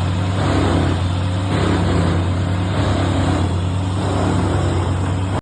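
Vermeer WC2300XL tree chipper running steadily under load, its engine humming beneath the rough, surging noise of the drum chewing through eucalyptus logs. It stops abruptly at the very end.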